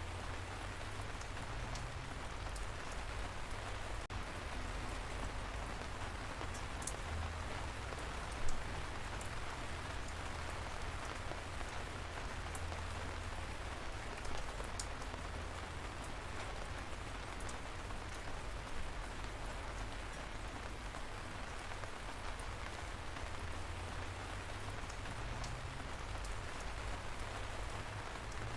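Steady light rain falling, with the patter of individual drops landing close by and one louder drop about a third of the way through.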